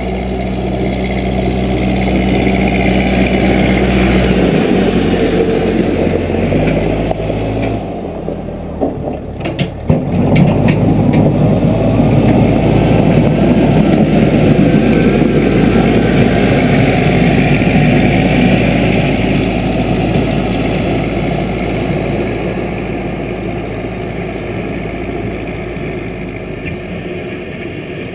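Case 580B backhoe's engine running, its speed changing a few times in the first seconds, with a few clanks around nine to ten seconds in. After that it runs louder and rougher for a while, as if working under load, then slowly eases off.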